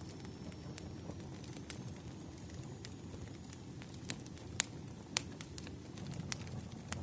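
Wood fire crackling: irregular sharp pops and snaps of burning logs over a low steady rumble.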